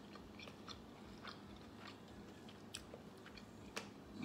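Faint chewing of a mouthful of meatloaf: soft wet mouth clicks scattered through, with two sharper clicks in the last second and a half, over a faint low steady hum.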